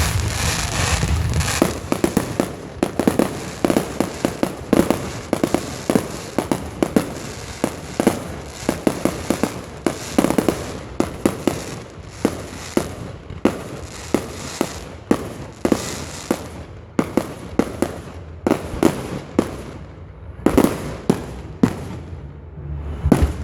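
Fireworks going off: a dense crackling rush at first, then a long irregular string of sharp bangs and pops, several a second, with a few louder bangs near the end.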